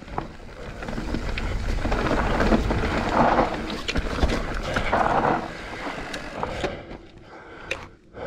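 Mountain bike riding fast down a dry, dusty dirt trail: tyre noise over the dirt and wind rumbling on the microphone, with a few sharp knocks from the bike. It gets louder through the middle and quieter after about seven seconds.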